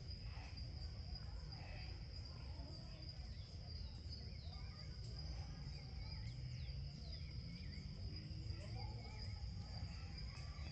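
Natural outdoor ambience: insects trilling in one steady, unbroken high-pitched tone, with birds calling over it in short falling chirps and wavering, warbling phrases, above a low rumble.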